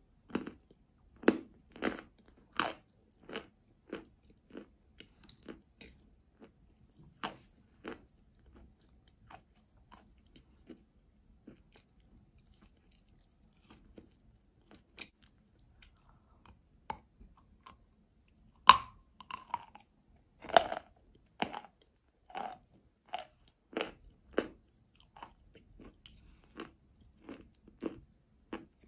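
Close-miked crunching and chewing of eating chalk: sharp, crisp bites and chews, quick at first, sparse in the middle, then two loud crunching bites about two-thirds of the way in followed by steady chewing.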